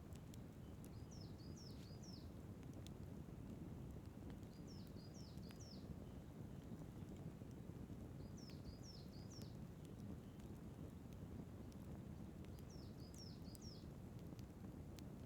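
Outdoor fire crackling with scattered sharp pops over a steady low rush. A bird repeats a short phrase of three or four quick high notes about every four seconds.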